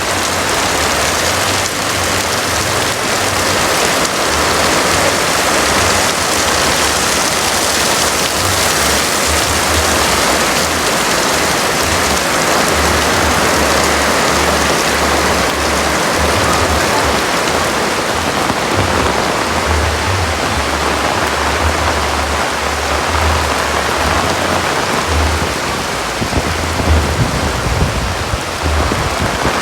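Heavy rain falling steadily, a dense even hiss, with gusts of strong wind rumbling low underneath. A few sharper peaks come near the end.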